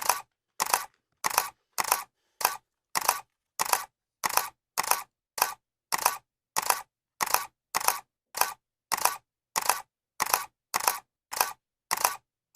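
Camera shutter clicking over and over at an even pace, about three clicks every two seconds. Each click is a quick two-part snap, with dead silence between clicks.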